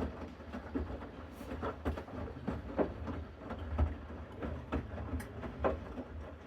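Bosch Series 6 front-loading washing machine in its main wash: a steady low motor hum as the drum turns, with irregular soft knocks from the wet laundry tumbling.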